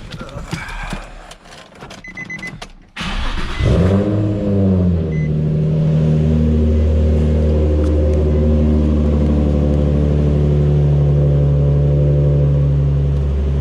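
Nissan 350Z's 3.5-litre V6 cranking briefly, catching with a rev flare and settling into a steady idle, through a Concept Z Performance true-dual cutback exhaust with ISR test pipes that give it a little bit of rasp. Before the start there are a few clicks and three short beeps.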